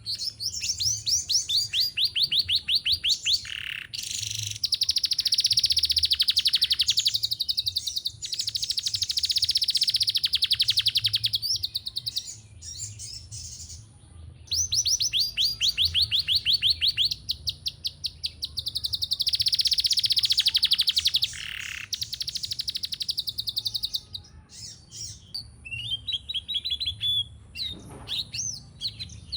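Domestic canary singing in phrases of fast, rapidly repeated high trilled notes, each a few seconds long with short pauses between them, and scattered softer notes near the end. The song is still short, as the bird has just finished its moult and is only starting to sing again.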